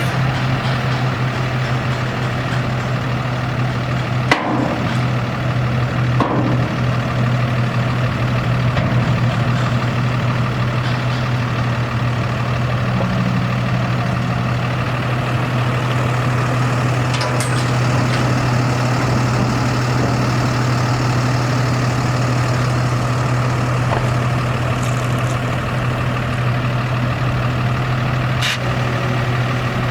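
Cummins 6.7L ISB diesel engine of an International 4300 dump truck idling steadily, with a few sharp clicks over it, the loudest about four seconds in.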